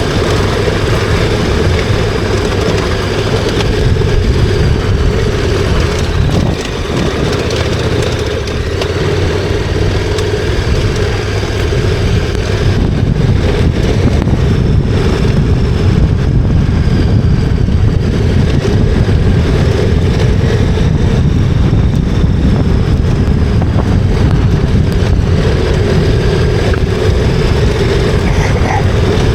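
KTM 1290 Super Adventure R's V-twin engine running steadily while the bike is ridden, with a brief dip in level about six seconds in.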